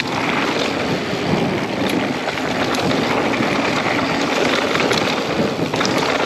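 Wind buffeting the microphone over the rush and rumble of a mountain bike riding fast down a dirt trail, with scattered small ticks and rattles from the bike.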